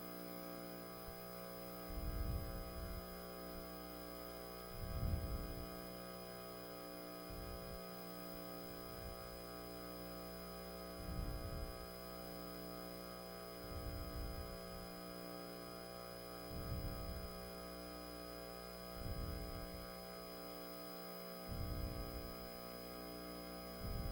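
Steady electrical mains hum with many evenly spaced overtones on the audio line, with soft low thumps about every two to three seconds.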